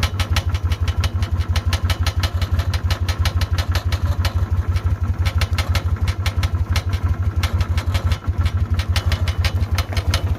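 Car engine idling with a rapid, even ticking riding on its pulses: the suspect clacking the owner traces toward one side of the exhaust.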